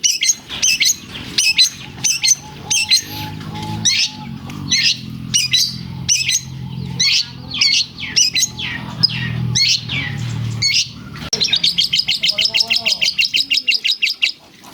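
Long-tailed shrike (cendet) singing loudly in a string of sharp, high chirps, its song filled with imitated lovebird calls. About three seconds before the end it breaks into a fast, even trill.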